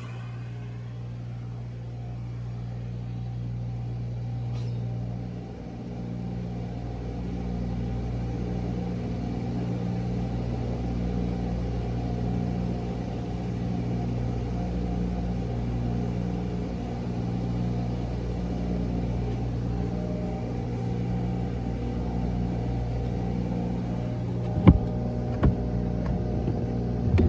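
Car wash vacuum running with a steady low hum, with a few sharp knocks near the end.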